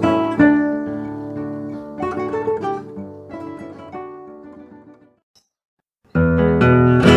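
Background music: acoustic guitar chords struck a few times and left to ring, fading away into a second of silence. Then louder, fuller music with a strong bass comes in near the end.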